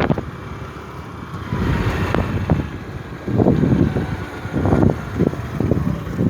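Wind buffeting the microphone on a moving scooter, in irregular gusts, with the scooter's engine running underneath.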